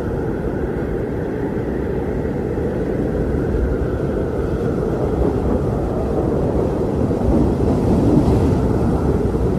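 Strong wind blowing: a steady, low rushing roar that swells into a stronger gust near the end.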